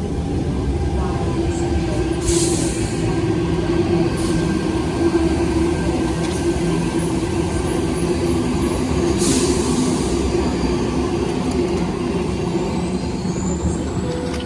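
A train running at the station platform, with a steady low rumble and hum, and two short hisses of air about two seconds and nine seconds in.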